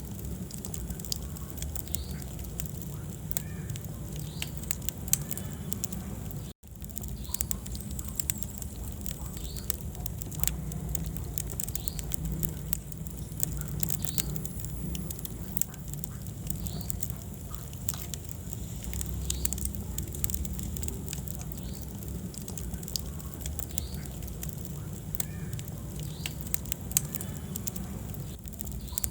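Wood fire in a fireplace crackling, with frequent sharp pops and snaps over a steady low rumble of the flames. The sound cuts out for an instant about six and a half seconds in.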